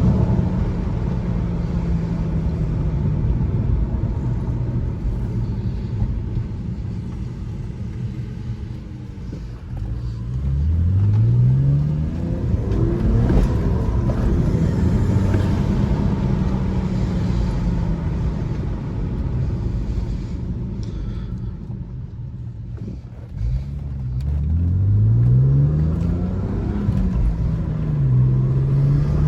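BMW 335xi's twin-turbo 3.0-litre inline-six with an Injen cold air intake, accelerating hard twice with the engine note climbing each time, and easing off and coasting between the pulls.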